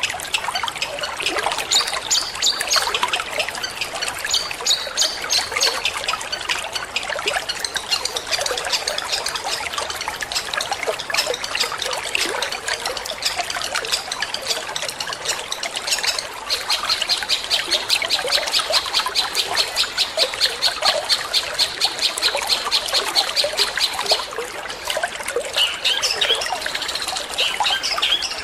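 Water trickling steadily, with a long-tailed shrike (cendet) singing over it in the fast 'petir' style: short high phrases early and late, and a long, fast chattering trill through much of the second half.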